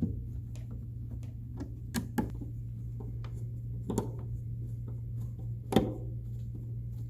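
Scattered light clicks and a few louder knocks of plastic toy-house panels being handled and screwed together with small screws, over a steady low hum.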